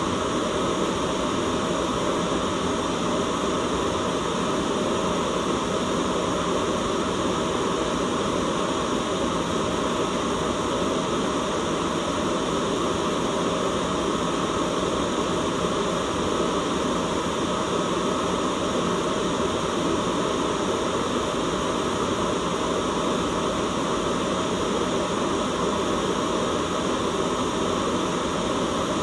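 Steady, unchanging white noise: an even hiss whose energy sits mostly in the low-middle range, with no breaks or changes.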